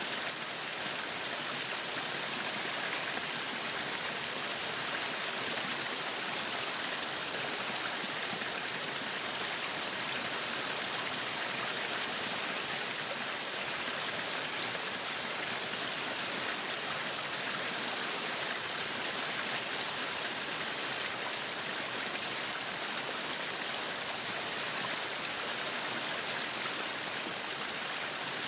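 Meat sizzling on a yakiniku grill: a steady, even hiss with no breaks.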